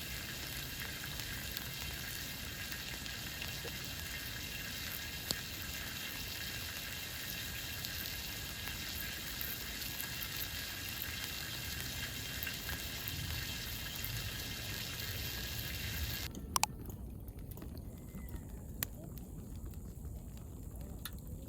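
Food sizzling in a pan as a steady hiss, which cuts off suddenly about three quarters of the way through, leaving quiet outdoor background with a few light clicks.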